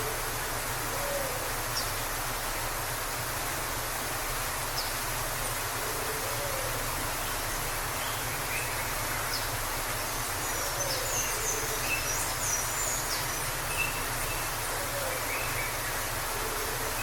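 Waterfall: a steady rush of falling water. Faint birdsong sits over it, with low calls every couple of seconds and short high chirps that are busiest in the second half.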